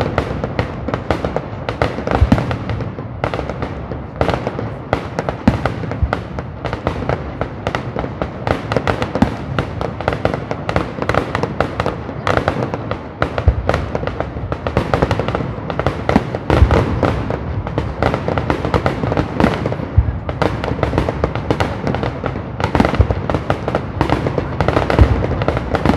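Fireworks display in a dense, continuous barrage: many shell bursts and crackles a second, with no pause.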